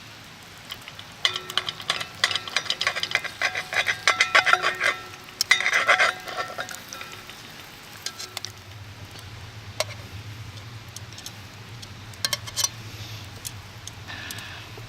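Metal utensil scraping and clinking against a cast-iron skillet as steak fries in it, with a light sizzle, in a dense run of ringing clinks that stops after about six seconds. After that, a low steady hum with a few scattered clicks.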